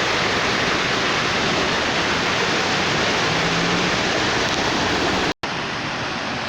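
Heavy rain pouring down, a loud steady hiss. It cuts out for an instant about five seconds in and comes back slightly quieter.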